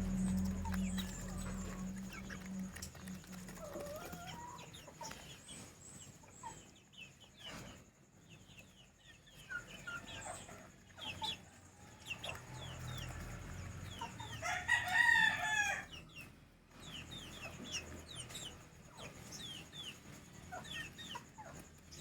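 Backyard chickens clucking and peeping, with many short high chirps throughout. A rooster crows once about fifteen seconds in, the loudest sound.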